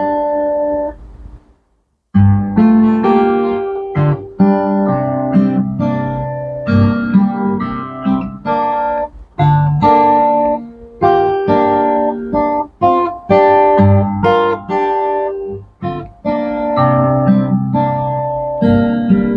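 Solo guitar playing a slow, quiet instrumental piece. A ringing chord fades to a brief silence about two seconds in, then plucked melody notes resume over sustained bass notes.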